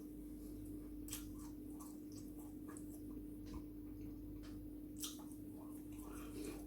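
Close-miked eating sounds: a person chewing food, with scattered soft mouth clicks and smacks at irregular moments, over a steady low electrical hum.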